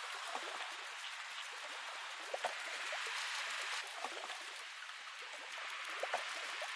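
Rain falling: a steady hiss with many scattered individual drops.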